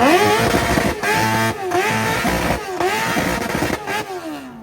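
A high-performance car engine revved hard: the pitch climbs fast at the start, is held high with a few brief dips, then falls away near the end as the throttle is released.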